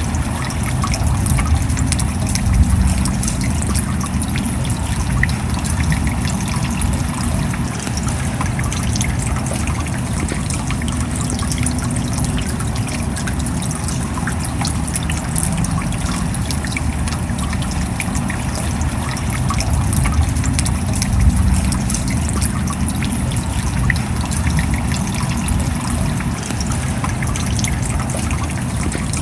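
Steady rain, with water trickling and pattering as many small drops strike.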